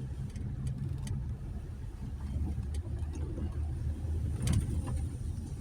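A 2020 Jeep Gladiator's 3.6-litre V6 engine running steadily at low trail speed, with a few sharp clicks and rattles over the hum, the most prominent about four and a half seconds in.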